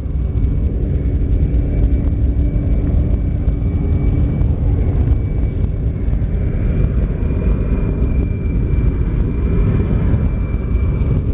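Four turbofan engines of a C-17 Globemaster III, the Pratt & Whitney F117s, running loud at high power as the jet flies a slow, low pass: a steady deep rumble with a thin, steady whine. The high thrust is what holds altitude at slow-flight speed.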